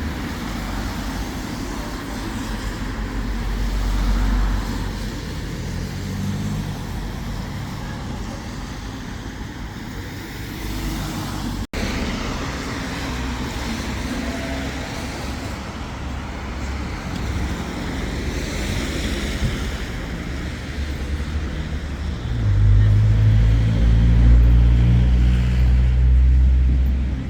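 City street traffic, with cars and other motor vehicles running by. About 22 seconds in, a louder, deeper engine rumble comes in from a vehicle close by.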